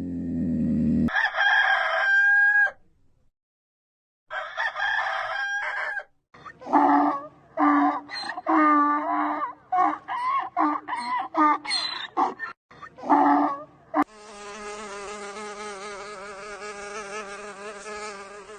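A series of separate animal recordings: fowl-like calls, some with pitch glides and others short and repeated, then a steady insect buzz for the last few seconds.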